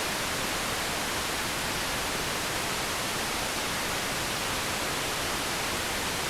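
Steady electronic static hiss, flat and even with nothing else in it.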